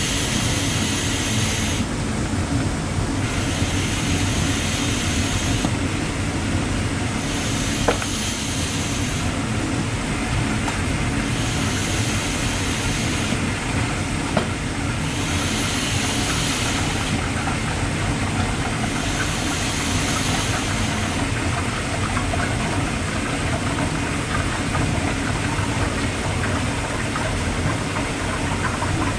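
Mityvac oil extractor drawing warm engine oil out through the dipstick tube of a 2010 Jaguar XKR's 5.0 L supercharged V8, a steady rushing and gurgling of oil and air through the hose. Over the first twenty seconds a hiss comes and goes about every four seconds.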